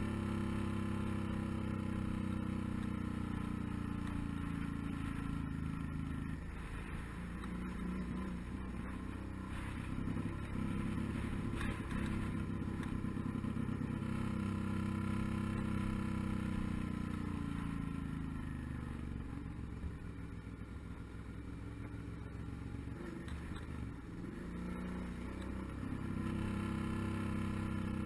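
Suzuki DL650 V-Strom's V-twin engine running on the move. Its pitch drops off about six seconds in and again in the latter half, with a few quick rises and falls, then climbs back near the end as the rider eases off and gets back on the throttle.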